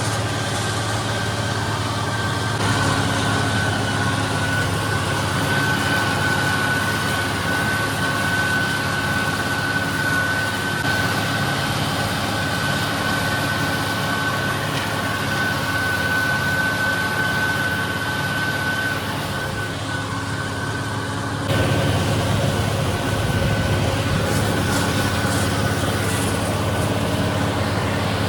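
Farm tractor's diesel engine running steadily under load while mowing hay, with a steady high whine over the engine hum. The sound changes abruptly about two and a half seconds in and again about seven seconds before the end.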